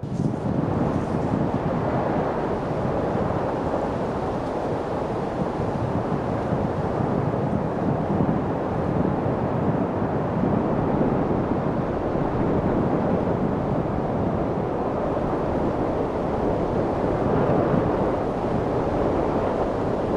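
Steady wind: an even, rushing noise, heavy and low, without distinct gusts.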